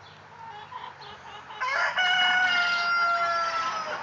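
A rooster crowing: one long call starting about a second and a half in, its pitch falling slightly toward the end.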